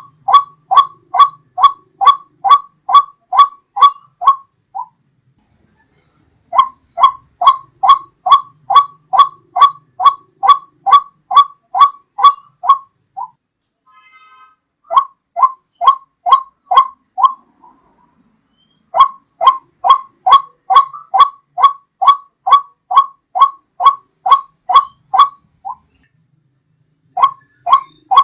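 White-breasted waterhen (ruak-ruak) calling, played as a loud, clear hunting lure: a fast string of short, identical notes, about two to three a second, in runs of several seconds broken by brief pauses.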